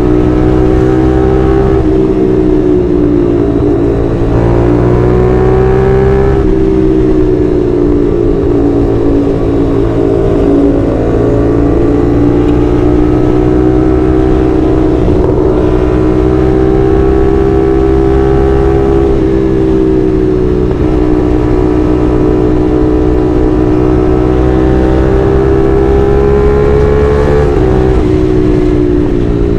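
CFMoto 450SR's parallel-twin engine with its 270-degree crank, running under way. Its note drifts gently up and down with the throttle and dips briefly a few times.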